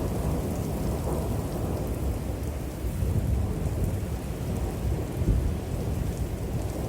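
Thunderstorm: steady rain with a deep, continuous rumble that swells and fades, loudest around the middle and again near the end.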